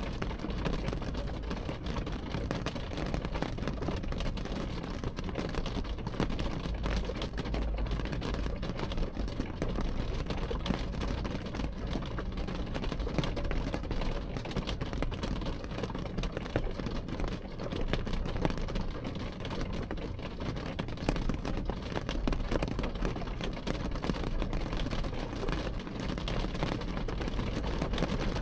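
Rain pattering on a car's window glass, heard from inside, a dense spatter of small drop ticks over a steady low rumble.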